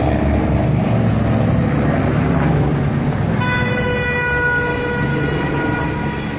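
Low, steady rumble of vehicle engines. About three and a half seconds in, a vehicle horn sounds one steady tone for about two and a half seconds.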